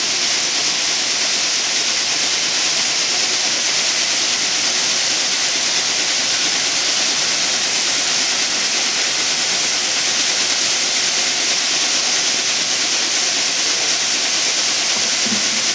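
Plastic recycling washing machine running: a steady, even rushing noise of water and machinery.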